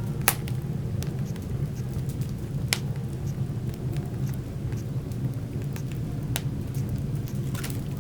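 Wood fire burning in a fireplace: a steady low rumble of the flames with scattered crackles and four sharp pops.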